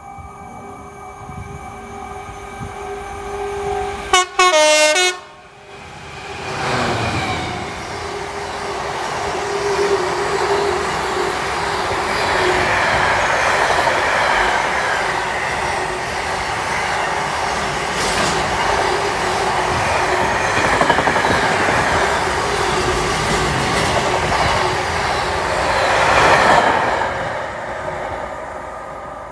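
A train sounds a short, loud horn with a falling second note as it approaches, then passes through at speed for about twenty seconds, the running noise building to a peak shortly before the end and then fading away.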